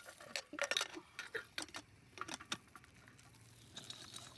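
Light, irregular clinks and rattles of a cooking pan and utensil holding unpopped popcorn kernels, about a dozen small clicks in quick succession.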